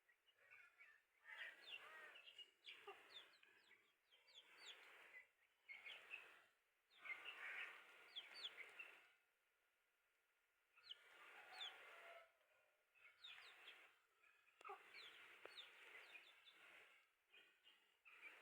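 Aseel chicks peeping: many short, quick chirps in bunched bouts, with pauses of a second or two between bouts.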